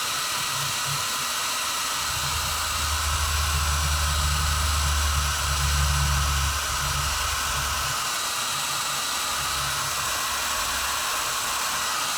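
Hand-held hair dryer blowing steadily, a hissing rush of air, with a low rumble that swells for a few seconds in the middle.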